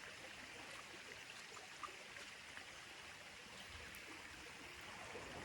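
Faint, steady running water, like a small stream, with a few light clicks.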